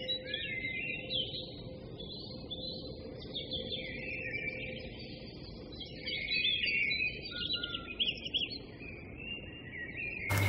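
A small bird singing: a steady run of high chirps and warbling trills, with a few quick repeated notes a little past the middle.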